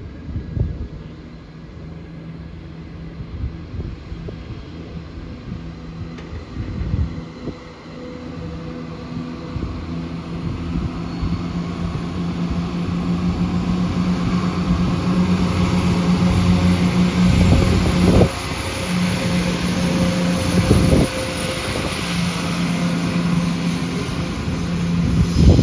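A train coming through, its steady low hum with a fixed pitch growing louder over about ten seconds and staying loud, with a few short knocks in the second half.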